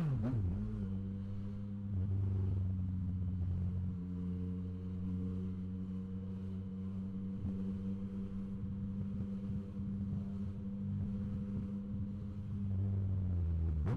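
Yamaha MT-09 SP's three-cylinder engine running through a Blackwidow aftermarket exhaust while riding, holding a steady engine note after a brief fall in pitch right at the start.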